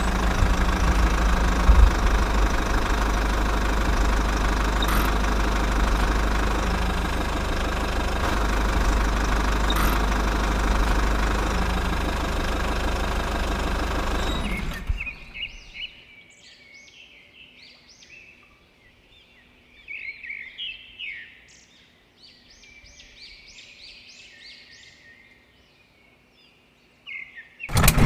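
A small engine runs steadily for about fifteen seconds, then cuts off suddenly. After that, birds chirp in short scattered calls over a quiet background.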